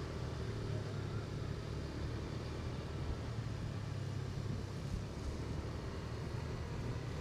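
Motorcycle engine running steadily under way, with road and wind noise as the bike rides along.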